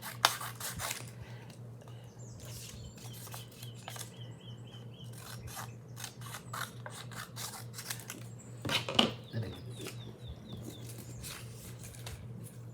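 Small metal snap buttons clicking and scraping as they are handled and set down, in scattered clicks with a louder knock near the start and another about nine seconds in, over a low steady hum.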